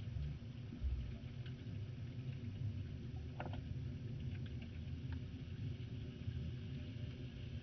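Underwater ambience: a muffled, steady low rumble of moving water with scattered faint clicks and crackles.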